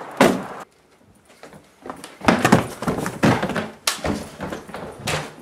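A door thuds shut, then after a short pause comes a series of heavy thumps, about two a second.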